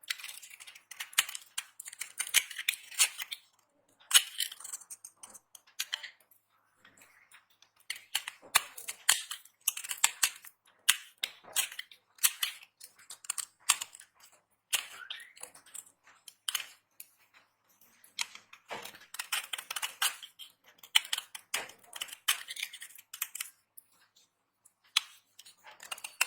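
Dry soap being cut and crushed: crisp crunching and crackling in runs of one to three seconds, with short pauses between.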